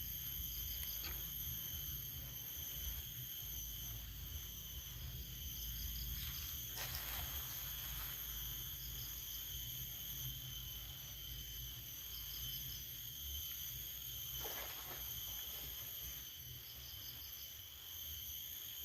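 Insects chirping: a steady high drone with a short pulsed chirp repeating every few seconds, over a low rumble. Two brief rustling hisses come through, about a third of the way in and again past two-thirds.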